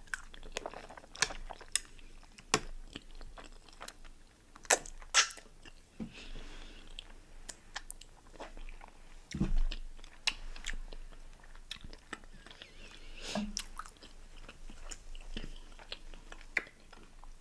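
Close-miked chewing and biting: wet mouth smacks and clicks with crunches, with a dull low thump about halfway through.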